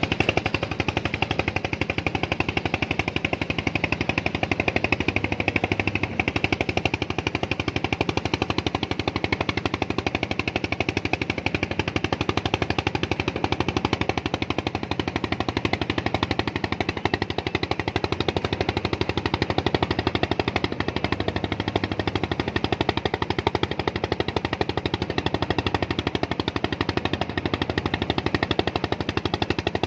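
A small engine running steadily, with a rapid, even chugging that does not change.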